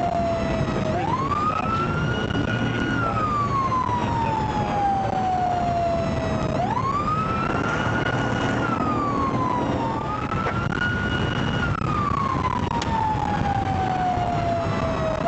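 Police car siren in wail mode: a tone that climbs quickly, holds briefly, then slides slowly down, over about three full cycles. Steady road and engine noise lies underneath.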